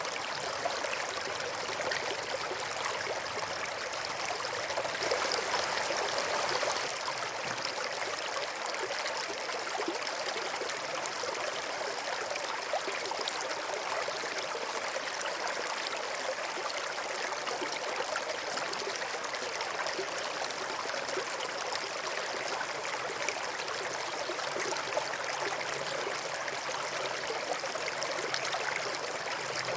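Small stream flowing and trickling over stones, a steady babble of running water.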